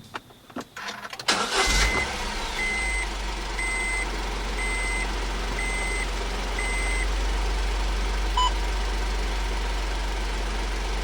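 Honda S660's small turbocharged three-cylinder engine starting after a few clicks, then settling into a steady idle with a low hum. Over the idle, a car warning chime beeps six times, about once a second.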